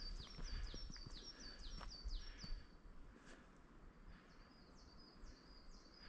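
A bird in the forest singing a quick, high series of short down-slurred notes, about four a second. The song fades out about halfway through and picks up again near the end, over a faint low rumble.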